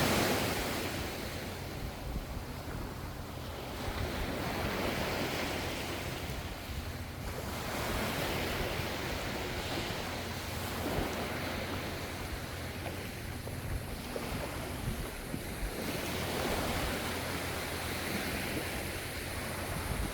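Ocean waves washing onto the shore, a steady surf that swells and eases every few seconds, loudest right at the start.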